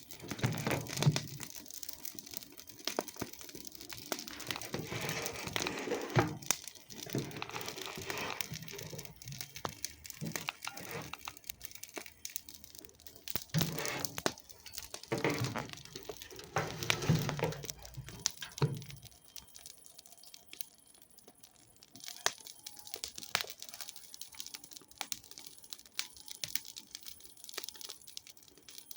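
Campfire crackling, with frequent sharp pops and snaps. It is busier and louder for the first two-thirds, then settles to a sparser crackle.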